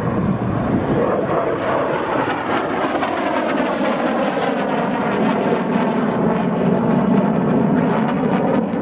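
Saab 37 Viggen jet with its Volvo Flygmotor RM8 engine flying past, a loud steady jet noise whose tones slowly slide in pitch as the aircraft moves.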